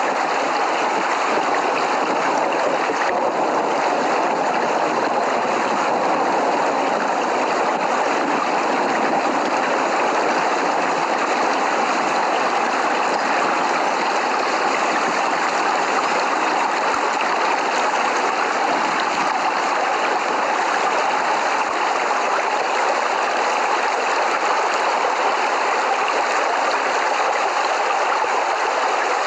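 Steady rain falling, an even unbroken wash of water noise with no thunder.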